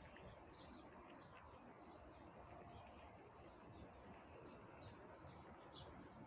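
Near silence: faint outdoor background with scattered faint small-bird chirps, high and brief, repeating throughout.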